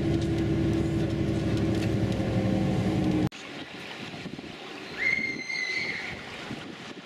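Steady engine drone with a low hum, cut off sharply about three seconds in. After that comes a quieter hiss of wind and water, with a short high whistle about five seconds in.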